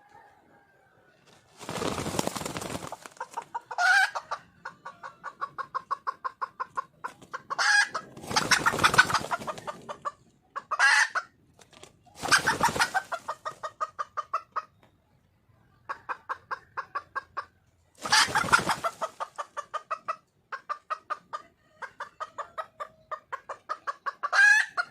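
Red junglefowl hen calling: long runs of quick clucks, about five a second, broken by a few sharp rising calls. Four loud noisy bursts of about a second each come in between the runs.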